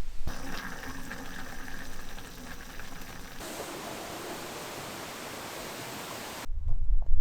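Rushing water, a steady even noise that changes character once, about three seconds in.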